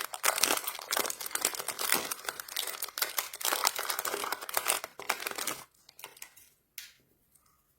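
Plastic candy wrapper being crinkled and pulled open by hand, a dense crackling that stops about two-thirds of the way through, followed by a single sharp click.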